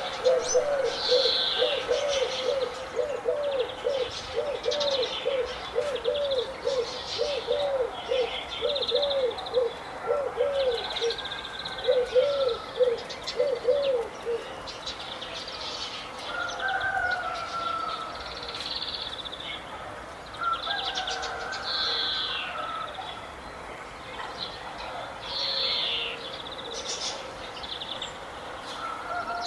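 Several birds calling together: one bird gives a low call repeated about twice a second through the first half, stopping about halfway, while higher chirps and short song phrases from other birds go on throughout.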